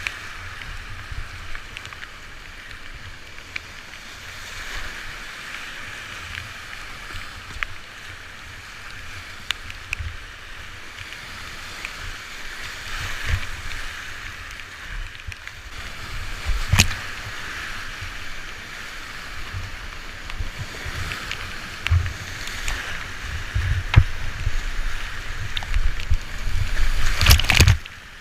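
Rushing whitewater of a river in spate under a kayak, a steady hiss of broken water with low thuds and occasional sharp knocks. It grows louder and rougher near the end.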